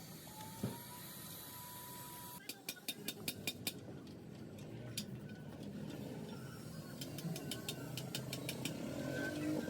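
A motor-driven machine running: a steady hum with a click, then sharp ticks and a mechanical running sound that grows louder and rises in pitch near the end.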